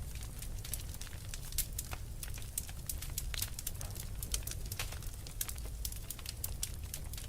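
Wood fire crackling, with frequent sharp pops and snaps scattered irregularly over a steady low rumble.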